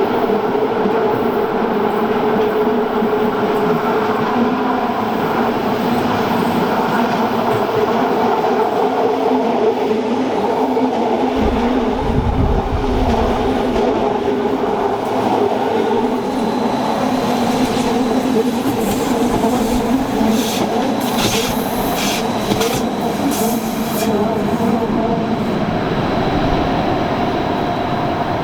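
Rhaetian Railway metre-gauge train running on the Arosa line: steady running noise with a motor hum. There are a few low thumps about twelve seconds in, then a run of clicks in the second half, with a faint high whine from the wheels.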